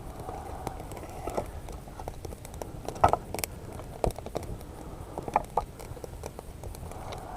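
A small campfire of birch twigs crackling and snapping irregularly, with a few louder knocks of wood about three, four and five and a half seconds in as sticks are handled and added.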